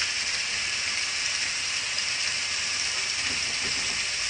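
Chicken liver sizzling in a pot on the stove, a steady hiss.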